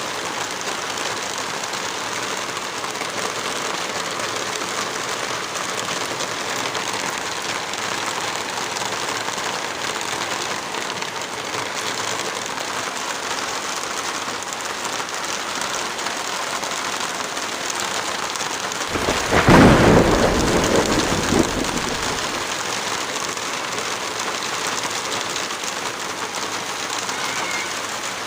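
Heavy rain falling steadily, with one loud crack of thunder about two-thirds of the way through that rumbles on for two or three seconds.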